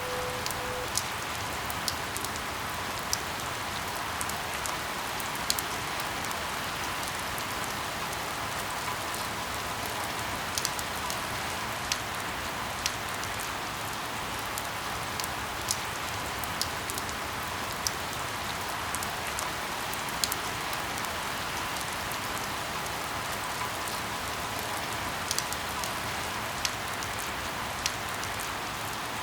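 Steady rain falling, with individual drops landing close by as sharp ticks at irregular intervals, about one every second or two.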